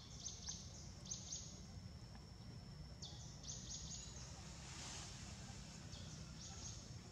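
Small birds chirping in short clusters of two or three quick high notes, four times, over a thin steady high insect whine and low outdoor background noise.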